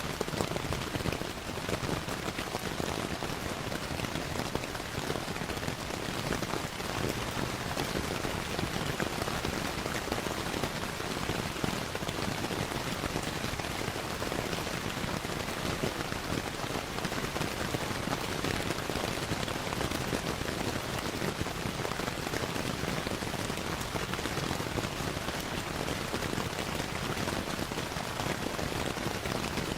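Steady rain with a dense, even patter of drops, layered with the crackle of a wood fire in a fireplace.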